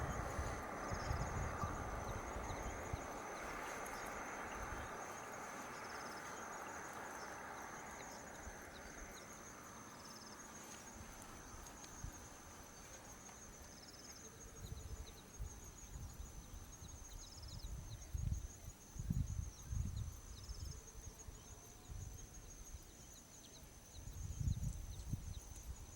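Outdoor savanna ambience: a steady high insect drone with short chirps every couple of seconds. A rushing noise dies away over the first third, and low thumps and bumps come and go in the second half.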